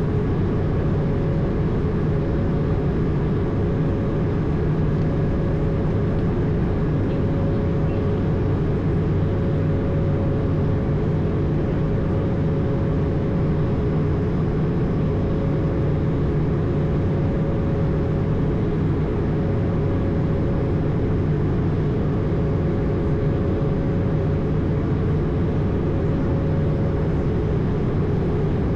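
Steady in-flight noise aboard an Airbus A220: an even rush of airflow with the hum of its Pratt & Whitney PW1500G geared turbofans and a steady tone, unchanging throughout.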